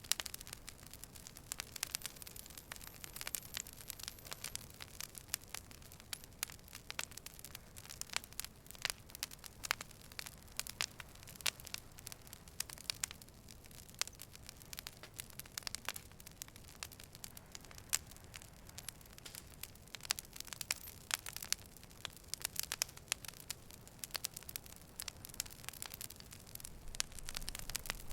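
Campfire wood crackling and popping: irregular sharp snaps over a soft hiss of the burning fire.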